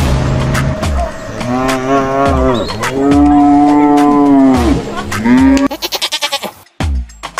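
Cow mooing three times, long calls that rise and fall in pitch, the middle one the longest and loudest. A steady motor hum stops within the first second, and a quick rattle follows the last moo.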